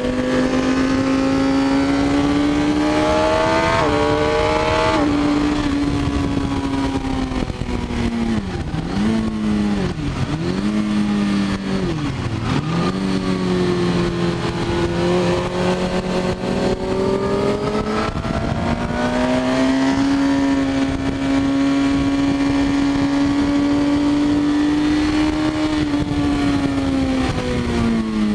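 Suzuki GSX-R K6's inline-four engine heard onboard at track speed. The revs climb with a gear change about four to five seconds in, then drop through three quick downshifts under braking between about eight and thirteen seconds. The engine pulls up again, holds high revs, and eases off near the end, with wind rush underneath.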